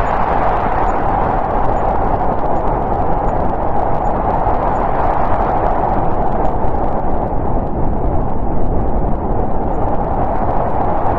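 Snowstorm wind blowing steadily, a constant rushing noise centred in the middle range, with the higher hiss easing a little past the middle.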